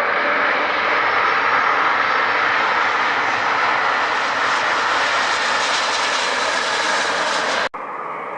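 Airplane engines running loud as a steady rushing noise, its hiss slowly brightening, then cut off abruptly near the end by an edit, after which quieter aircraft noise follows.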